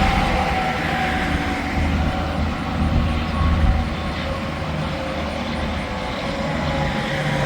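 Interstate highway traffic going by: a steady rush of tyre and engine noise from passing trucks and cars, with a whine that slowly falls in pitch.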